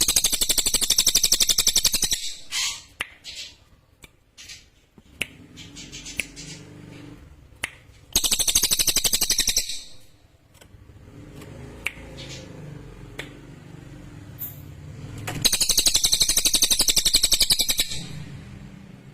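A cililin (grey-headed canary-flycatcher) singing: three loud, sharp bursts of very rapid, high trilling, each lasting about two seconds, one at the start, one about eight seconds in and one near the end.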